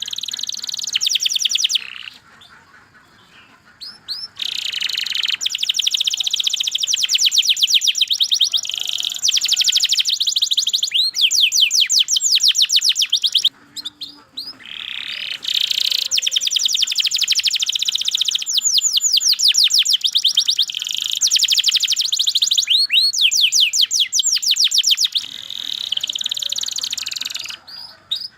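Domestic canary singing long phrases of fast rolling trills and chirps, pausing briefly about two seconds in and again around the middle.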